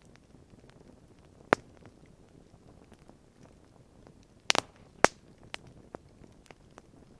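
Wood campfire crackling: sharp, irregular pops of burning wood over a low steady hiss, with a loud pop about a second and a half in and a quick cluster of pops around the middle.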